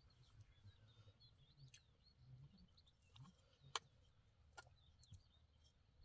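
Near silence with faint bird chirps and a low background hum. A sharp click comes just under four seconds in, and a lighter one about a second later.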